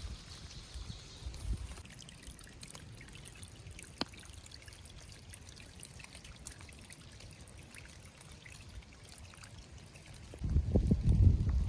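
Steady hiss of rain with running and trickling water, and a single sharp tick about four seconds in. Near the end, loud low thumping and rustling cut in over it.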